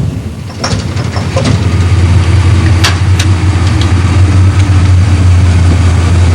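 Car engine idling with a steady low rumble, with a few sharp clicks over it in the first few seconds.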